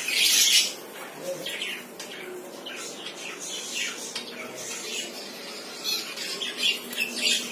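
A bird squawking: one loud harsh call right at the start, then a run of shorter squawks and chirps.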